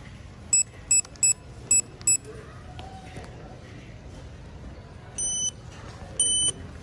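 Store checkout beeps from the register and scanner: five short beeps in quick, uneven succession, then two longer, slightly higher beeps near the end, over a low hum of store background.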